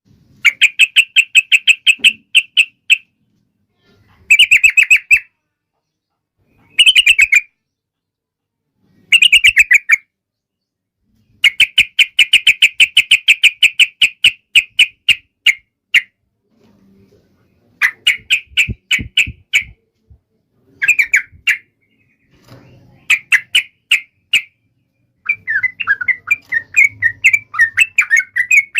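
Yellow-vented bulbul (trucukan) calling in fast rattling trains of short notes, about ten a second, in bursts of one to four seconds with short pauses between. Near the end the notes become a denser, more jumbled chatter.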